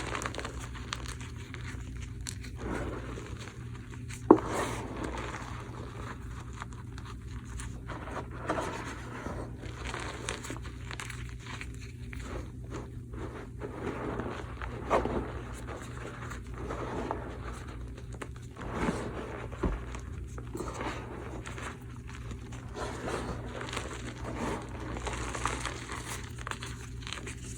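Blocks of gym chalk topped with cornstarch being crushed and crumbled: an irregular run of soft crunching and crinkling, with one sharp crack about four seconds in, over a steady low hum.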